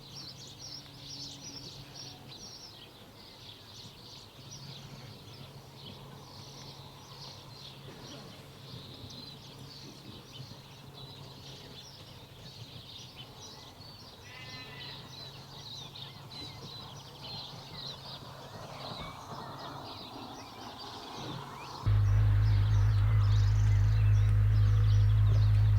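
Birds chirping, many short calls overlapping, over a faint steady hum. About 22 seconds in, a loud steady low drone starts abruptly and holds.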